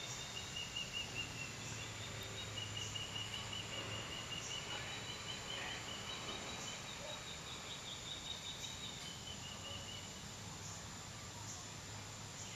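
Outdoor ambience: a high, wavering bird song carries on through most of the first nine seconds, over faint high ticks about once a second and a steady low hum.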